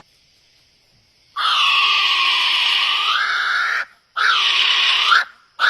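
A bird's long, raspy, screeching calls, three in a row, starting about a second in: the first lasts over two seconds, dipping and then rising in pitch near its end, and the next two are shorter.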